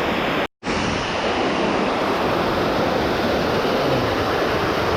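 Steady rush of a waterfall's falling water, cutting out completely for a split second about half a second in.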